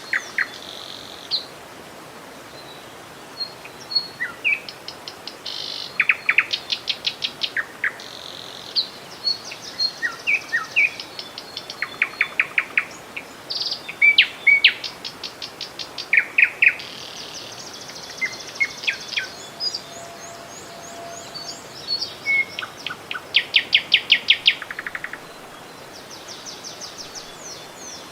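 Several songbirds singing, one rapid trilled phrase and short chirp after another, over a steady hiss of flowing river water.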